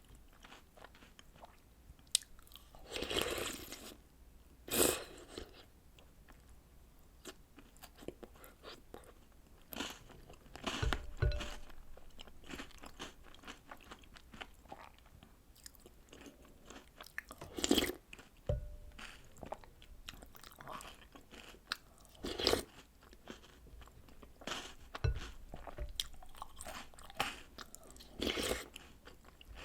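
Close-miked eating: bites and crunching of chocolate snacks and cereal soaked in milk, coming every few seconds between quieter chewing. There are a couple of short clinks.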